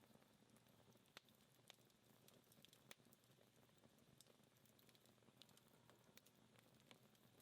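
Faint crackling of a dying wood fire: a few scattered, irregular pops and ticks from the embers over a soft hiss.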